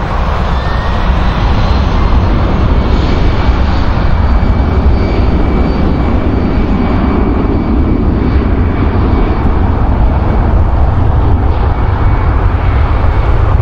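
Jet airliner engines running close by: a loud, steady rumble with a thin high whine over it.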